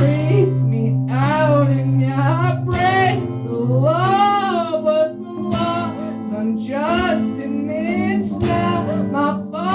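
A song performed live: a voice singing a melody over strummed guitar with a steady low bass line.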